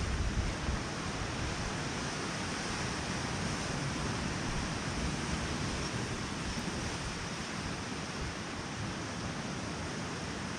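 Steady wash of ocean surf with wind buffeting the microphone, the gusts heaviest in the first second.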